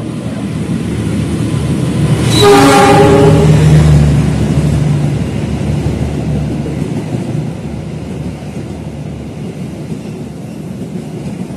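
Diesel locomotive of an Indonesian intercity train sounding its horn once, about two seconds in, for about a second and a half, as it runs through the station. Its engine and the coaches follow close by with a steady rumble of wheels on rails that slowly fades.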